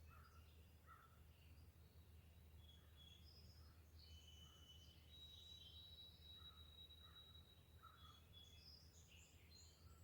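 Faint songbirds chirping and whistling in short scattered calls, with one long, thin, steady whistle held for about three seconds in the middle, over a steady low hum.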